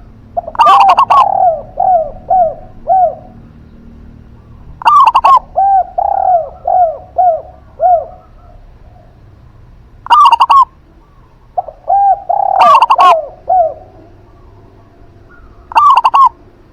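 Doves cooing in five phrases. Each opens with a loud, sharp note, and most run on into a string of up to five soft, falling coos at about two a second.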